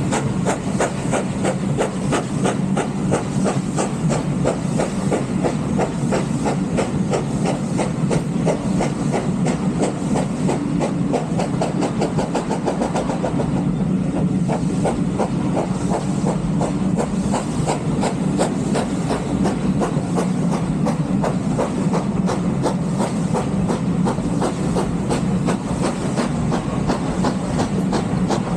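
Steam-hauled heritage train on the move: a steady rumble of the carriages with fast, continuous clicking and rattling of the wheels on the track.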